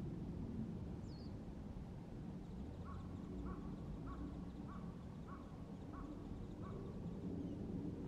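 A bird calling a steady series of seven short notes, about one every half second, over a constant low rumble; a single brief high chirp from a small bird comes about a second in.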